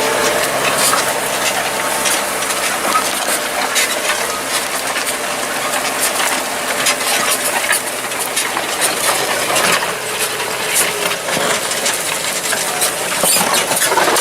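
Tractor engine running while a plough works through stony ground, with a steady stream of sharp clinks and scrapes from stones striking the plough.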